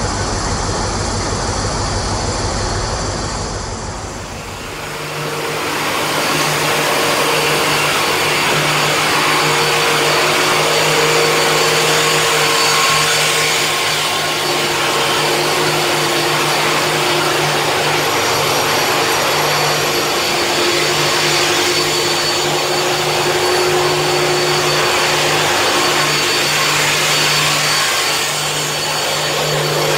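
Hitachi Intercity Express Train running close past along a station platform: a steady hum under a continuous rush of train noise. The sound changes about four seconds in, from a lower rumble to this.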